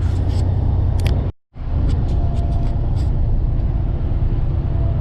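Steady low drone of a semi truck in motion, engine and road noise as heard inside the cab, with a few light clicks in the first few seconds. The sound cuts out completely for a moment about a second and a half in, then resumes unchanged.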